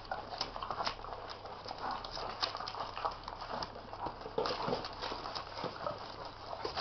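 A litter of puppies scampering about, their paws and claws making many quick, irregular clicks and patters.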